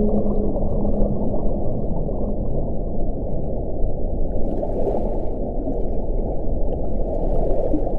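Wind blowing in a deep, steady rush, with a faint howling tone that fades out about a second in. Two gusts briefly add a higher hiss, one around the middle and one near the end.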